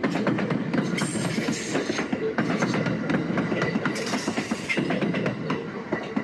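A JR Nanao Line train passing close by, its wheels clattering rapidly over the rail joints over a steady rolling rumble, with two brief spells of high hiss about a second and four seconds in.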